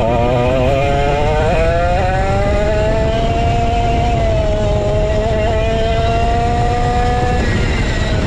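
Vintage go-kart's 135cc Sudam engine running on track, its pitch climbing steadily over the first few seconds as it accelerates, then holding high. The engine tone drops away about a second before the end.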